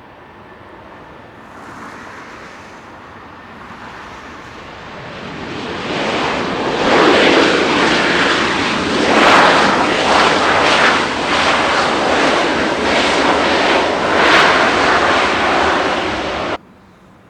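Jet airliner's engines at close range, building from a distant rush to a loud, rough, crackling roar as the aircraft passes on the runway, then cutting off suddenly near the end.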